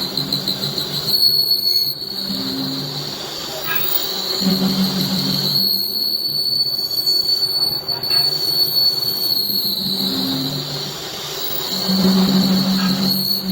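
Metal lathe turning a steel hydraulic piston: a steady high-pitched squeal from the cutting tool over the machine's low running hum, which swells and fades in patches.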